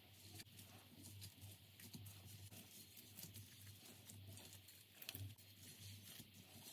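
Faint, irregular sticky clicks and crackles of slime being squeezed and stretched by hand, over a faint low hum.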